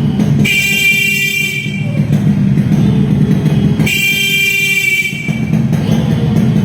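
Yamaha RXS 115 motorcycle horn honked twice, each honk about a second and a half long.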